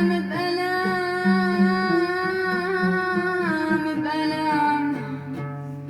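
A child singing one long held note of an Arabic song over instrumental accompaniment. The note steps down slightly about three and a half seconds in and fades near the end.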